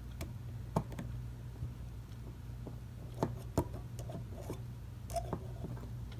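A screwdriver prying at a spring wire on a Seth Thomas 89C clock movement, making a few irregular small metallic clicks and scrapes over a steady low hum.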